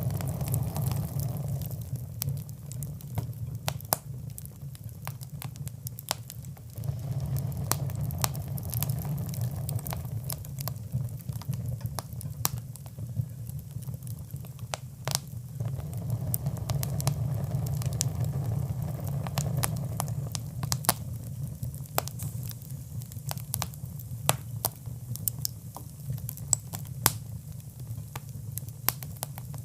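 Fire crackling in a fireplace: irregular sharp pops and snaps over a low rumble of flames that rises and falls every few seconds.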